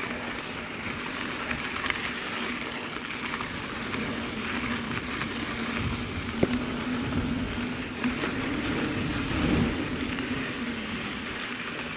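Mountain bike ridden along a dirt trail: a steady rush of tyre and wind noise with a low hum, and sharp knocks about six and a half and eight seconds in.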